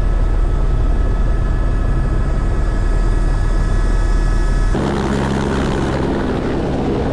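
Helicopter running close by, a loud steady drone of rotor and engine. About four and a half seconds in, the sound changes abruptly and loses much of its deep rumble.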